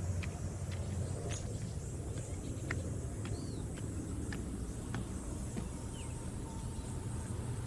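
Outdoor ambience: a steady low rumble, scattered sharp clicks, and a couple of short, high chirps about three and six seconds in.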